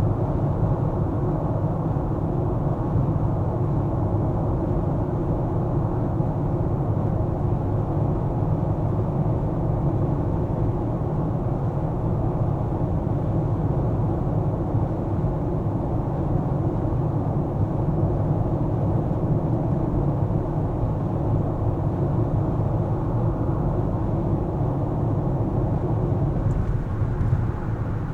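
Car driving in city traffic: steady, low road and engine noise.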